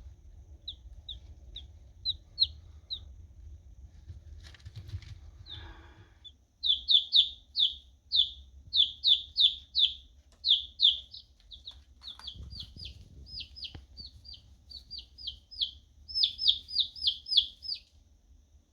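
Several baby chicks peeping: short chirps that fall in pitch, scattered at first, then coming fast in long runs of about four or five a second from about a third of the way in.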